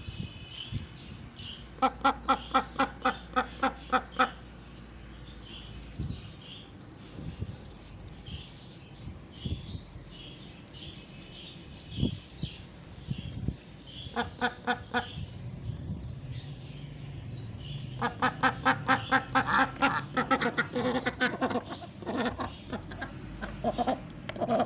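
Pet ducks quacking in rapid runs of about five or six quacks a second: a run a couple of seconds in, a short one about halfway, and a longer one near the end, with faint high-pitched calls in between.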